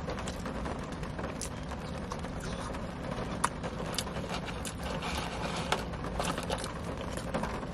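Chewing and mouth clicks of someone eating chicken nuggets and fries, with a few sharp clicks and light handling of a paper fry carton, over a steady low hum of a car cabin.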